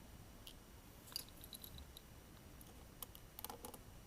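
Faint, scattered small clicks and ticks of a precision screwdriver and tiny screws being set into a smartphone's internal plastic panel, some in quick little clusters.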